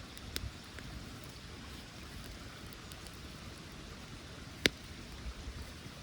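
Steady hiss of running water or light rain, with a faint sharp snap near the start and one loud sharp snap about three-quarters of the way through.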